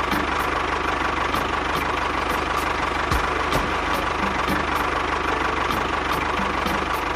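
A small motor running steadily, with a steady whine and faint regular ticking, like an engine idling.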